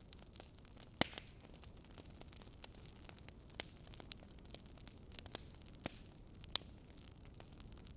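A metal spoon spreading and pressing shredded cabbage in a glass baking dish: scattered sharp clicks and light rustling over a steady faint hiss.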